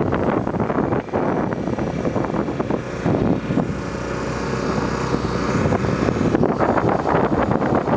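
Wind buffeting the microphone of a Honda XR250 Tornado single-cylinder motorcycle on the move, over the steady sound of its engine and road noise.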